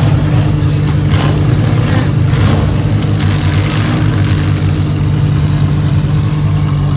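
Lamborghini Huracán Performante's V10 engine idling with a steady, deep drone.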